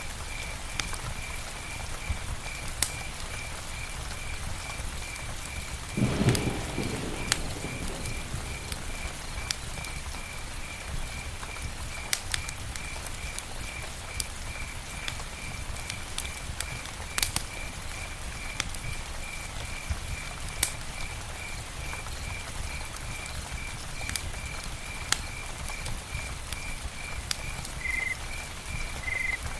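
Campfire burning, with a steady hiss and scattered sharp crackles and pops. A regular high chirp repeats about three times a second throughout, and a brief louder low rush comes about six seconds in.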